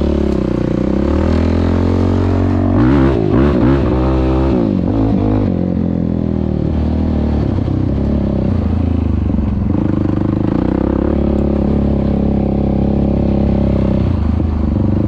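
An off-road engine running close by, revving up and down in a quick burst about three to five seconds in, then settling back to a steady, idle-like note.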